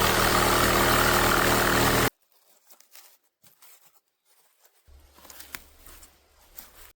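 Small engine running steadily and loudly for about two seconds, then cut off abruptly. Faint scattered clicks and knocks follow, with a low steady hum starting about five seconds in.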